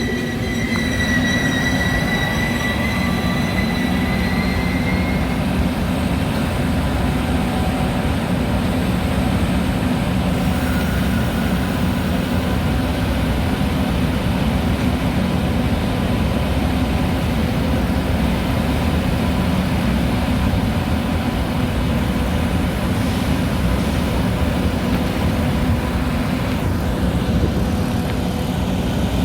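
Metra commuter train giving off a steady low rumble with faint steady tones, and a high whine that dies away within the first five seconds or so.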